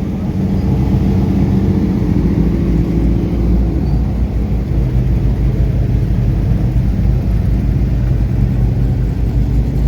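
Race car engine running steadily at low revs, its note settling lower about four seconds in.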